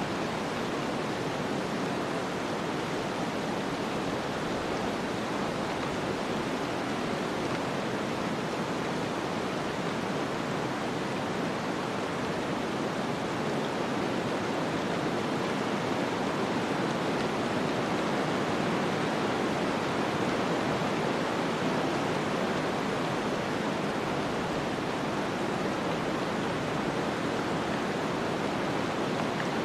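Steady snowstorm ambience: an even, rushing wind-like noise with no gusts, crackles or tones, swelling slightly around the middle.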